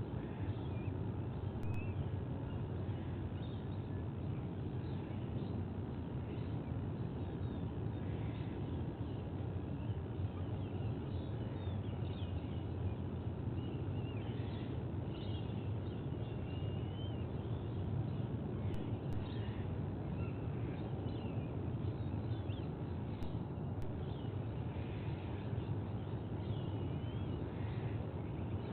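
Small birds chirping and whistling, many short calls scattered throughout, over a steady low background rumble.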